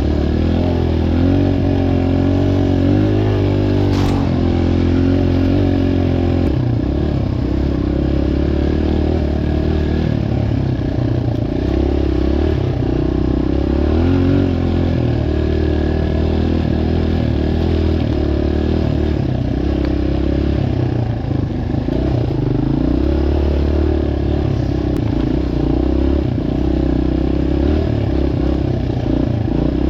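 Dirt bike engine running, its pitch rising and falling as the throttle is worked. There is one sharp click about four seconds in.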